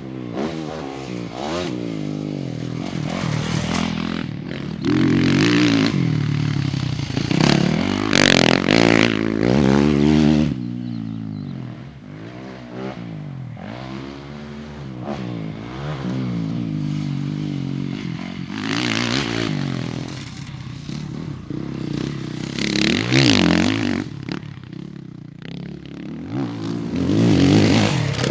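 Motocross bikes ridden on a dirt track, engines revving up and down as the riders accelerate and shift, with the pitch rising and falling again and again. The bikes are loudest at several moments, such as a few seconds in and again near the end, as they pass close.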